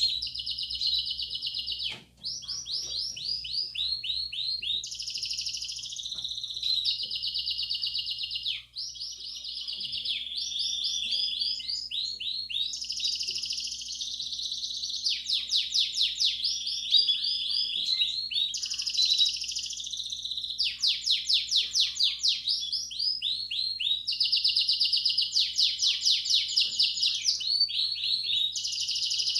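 Belgian canary singing a continuous song of fast repeated-note trills and rolls, switching to a new phrase every second or two, with two very short breaks early on. This is the "campainha" style song played to warm up and train canary chicks.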